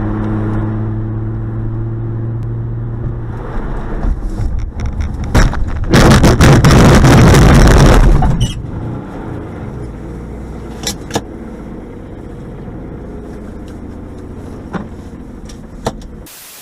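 A car driving with a steady engine and road hum. About six seconds in comes a loud crashing, crunching noise lasting about two seconds, the sound of a collision. Quieter rattling follows, with a couple of sharp knocks.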